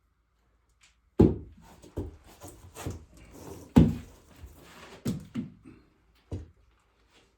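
Irregular wooden knocks and thuds, about seven in all, the loudest about a second in and again near the middle, with scraping between them.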